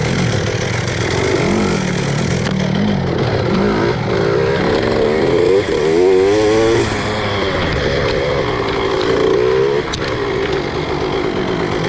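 Two-stroke enduro dirt bike engine (KOVI 300 2T) revving up and down again and again as the throttle is worked, the pitch climbing and falling; it is loudest, with a quick warble, about six seconds in.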